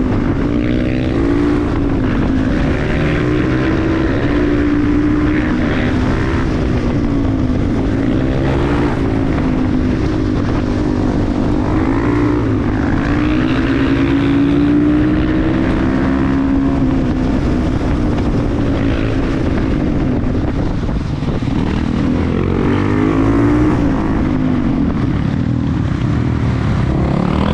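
KTM 350 EXC-F supermoto's single-cylinder four-stroke engine running under way, its revs rising and falling again and again.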